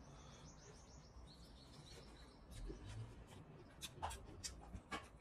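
Faint, rapid, high-pitched chirping, like a small bird twittering, in the first half, a string of quick chirps that steps lower partway through. After the middle come a few short wet clicks from eating curry and rice by hand.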